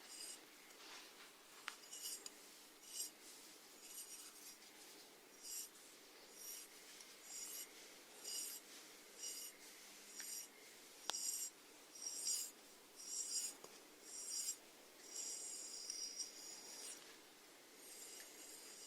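Snails making faint rasping sounds: a string of short, scratchy strokes about one a second, loudest around the middle.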